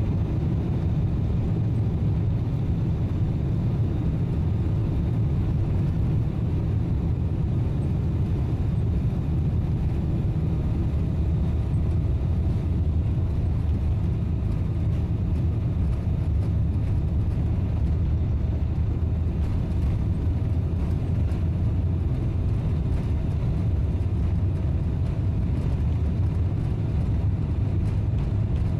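Steady low rumble of engine and air noise inside the cabin of a Boeing 777-300 airliner.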